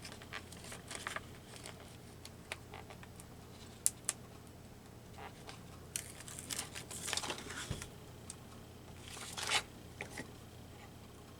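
Paper being handled at a craft table: light rustles and crinkles with small ticks and taps, and a couple of longer rustles about seven and nine and a half seconds in.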